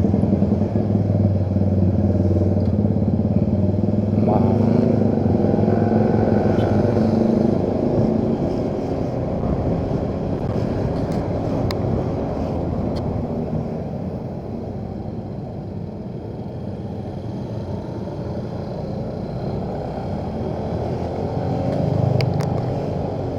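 Motorcycle engine running while riding, with road and traffic noise. It is loudest for the first several seconds and then eases off, with a brief rising sweep about four seconds in.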